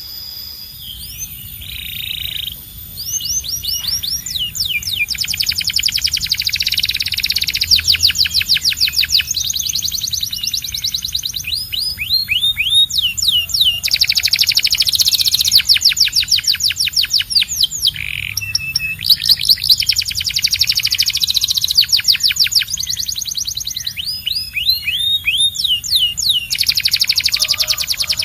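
Canary singing: rapid trills of fast repeated downward-sweeping high notes, in phrases lasting a few seconds with short breaks between them.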